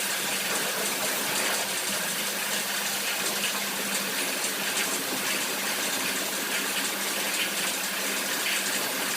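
Pressure washer spraying a steady jet of water, with its pump motor humming underneath.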